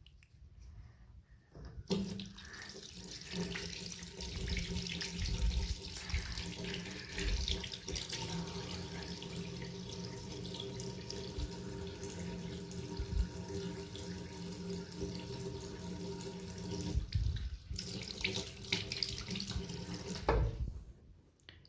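Water running from a tap into a sink: it starts about two seconds in, breaks off briefly near the end, comes back, and stops again shortly before the end.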